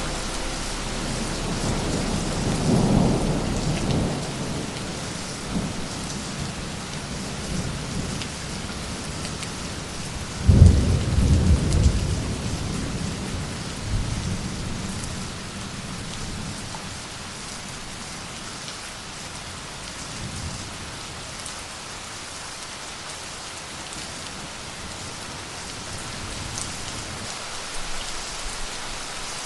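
Steady rain with rolls of thunder: a rumble near the start, a loud sudden one about ten seconds in that dies away over a couple of seconds, and fainter rumbles later on.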